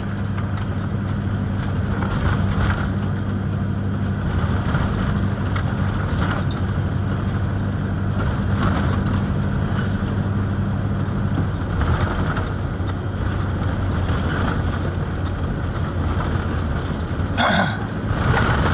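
A vehicle engine running steadily with a low hum. Its higher note drops away a little past halfway while the lower hum carries on, and there are a few short noises near the end.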